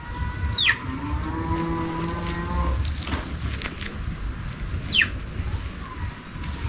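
A cow moos once, a call of about two seconds. Two short falling whistles come before and after it, over a steady low rumble.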